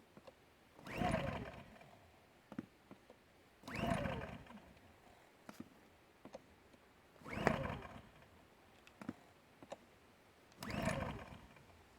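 Recoil starter of a Champion 2000-watt dual-fuel inverter generator pulled four times, about every three seconds: each pull is a short whirring rasp of the rope and the engine turning over, falling in pitch, with light clicks between pulls. The engine, on propane with the choke on, does not catch.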